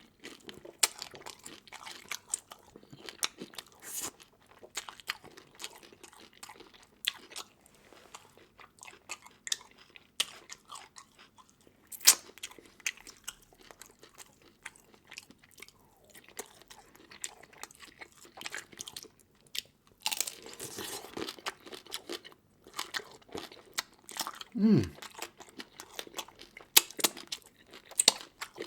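A person chewing and biting into seafood, with irregular wet crunches and sharp cracks, one louder crack about twelve seconds in. A brief low hum falling in pitch comes near the end.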